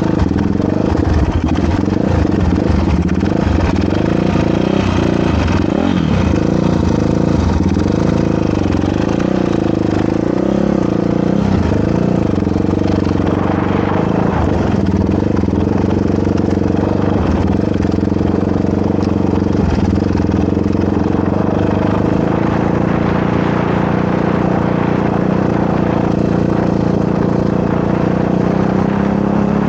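Motorcycle engine running while riding, the pitch rising and falling with the throttle through the first half, then holding steadier.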